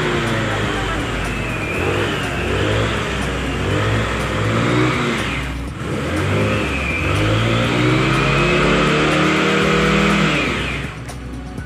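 Rusi Passion SC125 scooter engine being revved over and over, its pitch rising and falling. It briefly drops off about halfway, then revs up again and eases down near the end.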